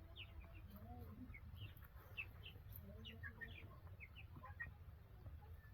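Faint chirping of small birds: many short, scattered high chirps.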